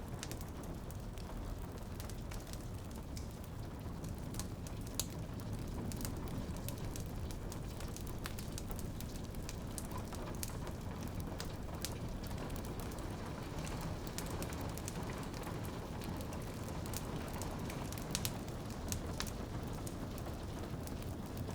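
Rain on a window pane over a crackling wood fire: a steady hiss of rain with many scattered sharp pops and ticks.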